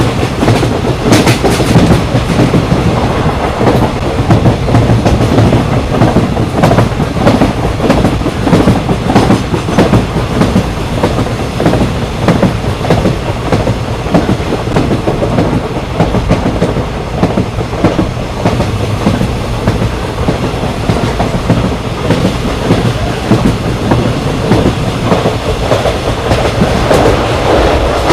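Indian Railways express train running at speed: a steady rumble and hum, with the wheels clattering and knocking over the track.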